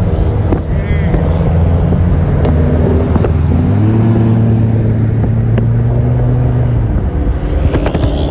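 Car engine and road noise heard from inside a moving car: a steady low drone that grows stronger for a few seconds in the middle, with a few light clicks.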